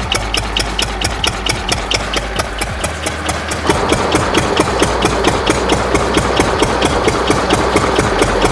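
Texwel 8 HP single-cylinder diesel oil engine running, with an even beat of about six knocks a second. It gets louder about four seconds in.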